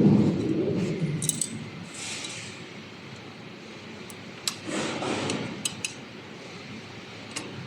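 Metal parts being handled at an aluminium profile cutting machine: two short stretches of sliding or rubbing, with sharp clinks and clicks of metal against metal. The saws are not running.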